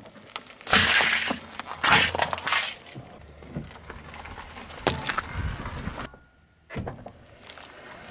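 Crunchy objects cracking and breaking as they are crushed under a car's tyre, in several bursts of crackling with single sharp cracks between.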